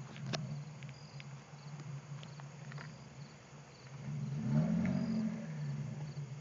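Lexus IS engine and exhaust idling with a steady low hum, swelling briefly in a small rise and fall of pitch about two-thirds of the way through. Crickets chirp in the background.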